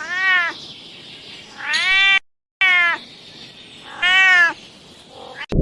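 A cat meowing four times, each meow a short high call that rises and falls in pitch. There is a brief dead gap between the second and third meows.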